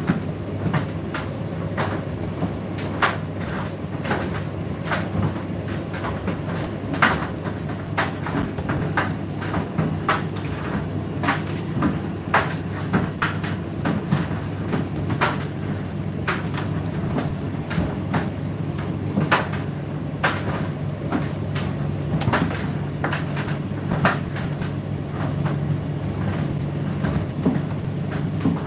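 Indesit IDC8T3 condenser tumble dryer running mid-cycle: a steady motor and fan hum, with irregular clicks and knocks from the load tumbling in the drum.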